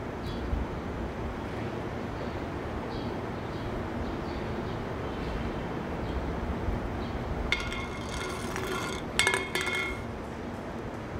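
Steady background noise, with a bright metallic jingling in two bursts for about two and a half seconds near the end.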